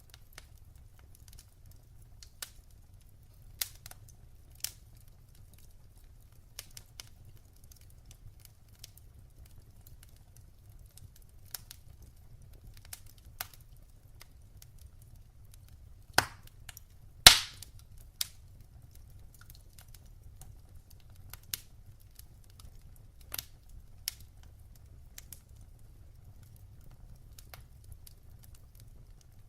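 Wood fire in a fireplace crackling: scattered sharp pops and snaps over a low steady rumble, with two louder pops about a second apart a little past the middle.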